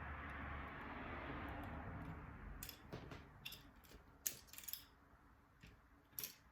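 A soft hiss fades away over the first couple of seconds. It is followed by a scattered series of about ten sharp little clicks and snips, like small tools or plastic parts being handled.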